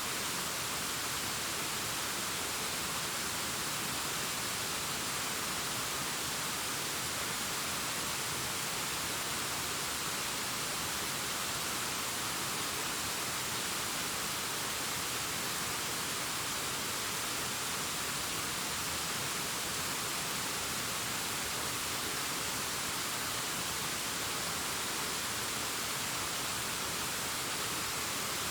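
Waterfall cascading down a rock face: a steady, unchanging rush of falling water, mostly high and hissy.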